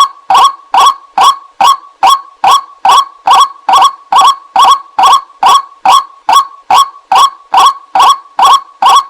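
White-breasted waterhen's lure call: a harsh, loud note repeated evenly about two and a half times a second without a pause.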